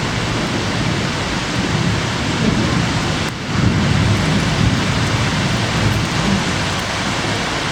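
Heavy typhoon rain pouring down in a steady, loud hiss, with a low rumble underneath; the hiss dips briefly about three seconds in.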